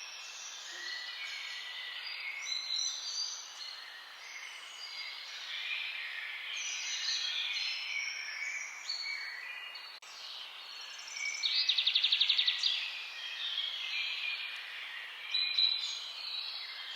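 A chorus of several songbirds singing at once, with many overlapping chirps and whistles. About eleven seconds in, one bird gives a loud, fast trill lasting just over a second.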